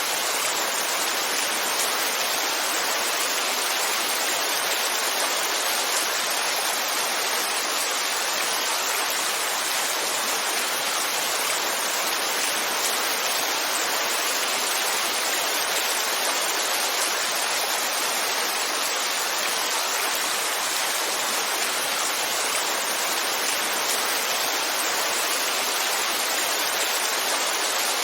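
Heavy rainfall: a steady, even hiss that doesn't change.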